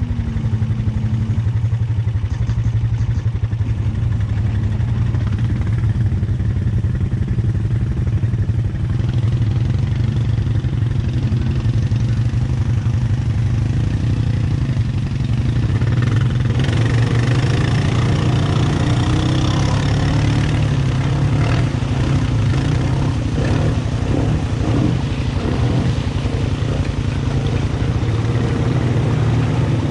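ATV engine running steadily through a mud trail. From about halfway through, more noise and rattling clatter come in over the engine.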